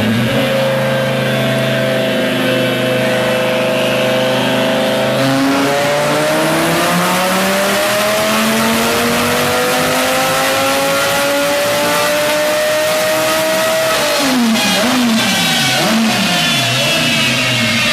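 Twin-turbo Lamborghini Gallardo V10 run on a chassis dyno: the engine holds a steady pitch for about five seconds, then pulls with a steadily rising pitch for about nine seconds, and about fourteen seconds in the pitch drops sharply and wavers as the revs fall.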